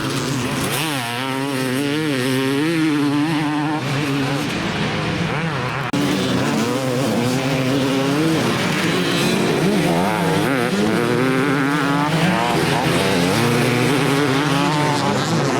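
Motocross motorcycle engines racing, several at once, their pitch rising and falling as the riders throttle on and off. The sound jumps abruptly about six seconds in.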